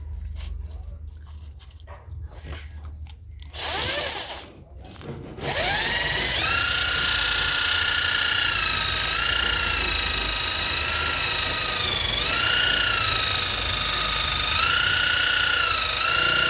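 Electric power tool motor switched on and running steadily with a high whine that sags briefly twice as it takes load, after a few seconds of light clicking and handling.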